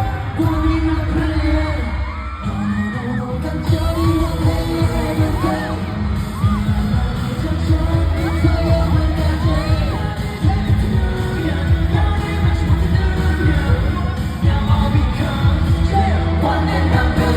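Live K-pop concert music: a pop song with singing over a heavy bass beat, with crowd voices mixed in.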